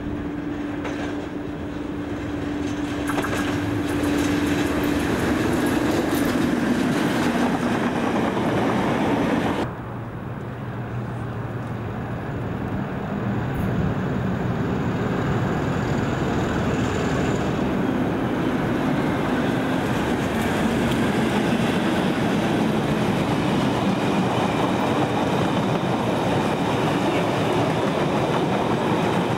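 Diesel-hauled freight trains passing through a station, the locomotive engine running with a steady low note that shifts in pitch as it goes by. After a sudden cut about ten seconds in, another diesel locomotive approaches and a long train of freight wagons rolls past close by.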